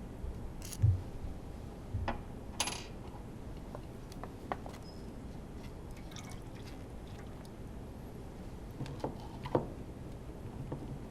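Scattered clicks and knocks of tools and metal engine parts being handled while a Honda Formula 1 engine is taken apart, with one short hissing burst near the end of the first third.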